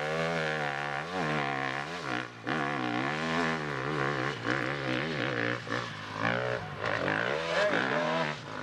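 Dirt bike engine revving, its pitch rising and falling over and over as the throttle is worked through the course.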